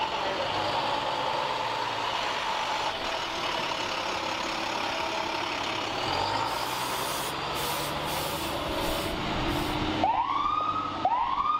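Large emergency vehicle running at the scene, with several short hisses of air brakes partway through. Near the end a siren starts winding up, rising twice.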